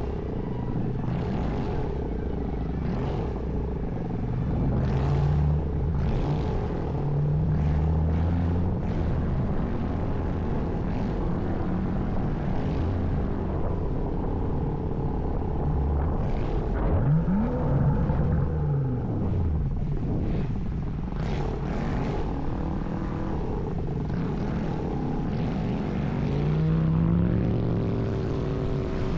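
BMW M235i's turbocharged N55 inline-six engine and exhaust running while driving, with engine pitch stepping and gliding up and down as it revs, including a sharp rev up and back down about two-thirds of the way through.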